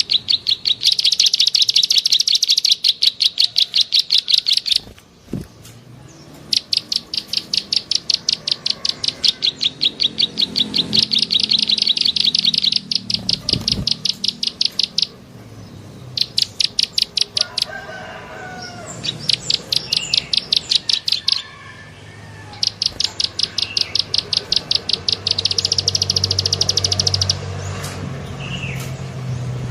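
Bird lure call ('klik-klik'): long fast trains of sharp, high clicking notes, each bout lasting a few seconds, broken by short pauses. Fainter, lower warbling calls from another bird come in about two-thirds of the way through.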